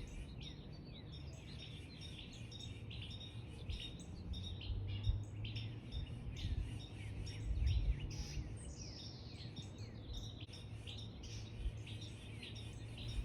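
Several songbirds chirping and calling, many short notes and quick downward-slurred whistles, over a low outdoor rumble.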